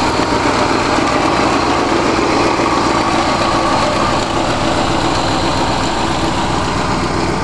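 Freshly rebuilt 1965 Ford 352 FE V-8 idling steadily, with two small exhaust leaks at the donut gaskets that the owner still has to tighten.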